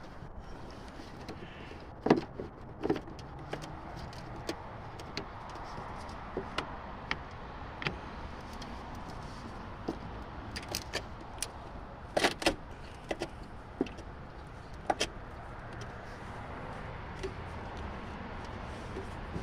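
Scattered sharp clicks and knocks of a truck's doors and latches being handled, over steady background noise. The loudest knocks come about two seconds in and again around twelve seconds in.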